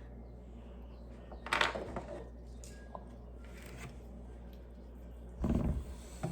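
Plastic Lego pieces being handled and fitted together: short bouts of rustling, scraping and clicking, three times, the last one heavier, over a steady low hum.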